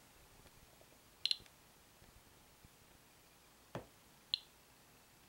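Geiger counter ticking sparsely while counting background radiation: a few sharp single clicks spaced seconds apart in a quiet room, with one duller knock shortly before the last click.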